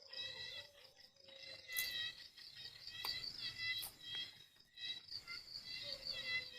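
Crickets chirping in a continuous high trill.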